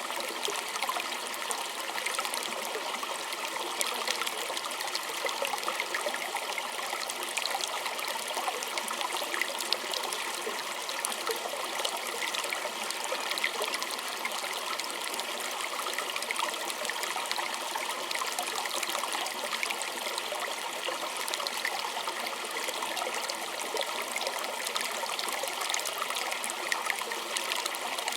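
A small stream trickling and bubbling steadily over stones, with many small splashes and droplet clicks.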